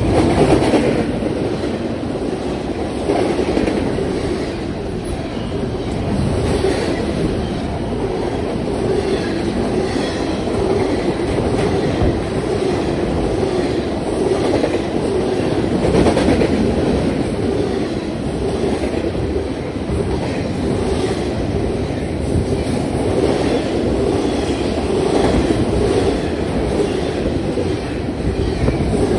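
Double-stack container cars of a Union Pacific intermodal freight train rolling past, a steady rumble of steel wheels on the rails with recurring clicks as the wheels pass over the track.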